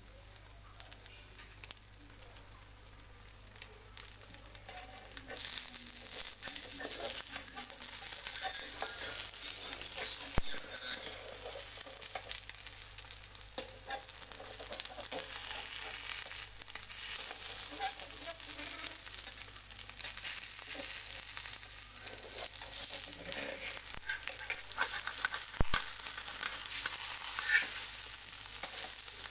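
Spanish omelette of egg, tomato, pepper and onion sizzling in a frying pan. The sizzle comes up about five seconds in, then runs as a steady hiss with scattered crackles.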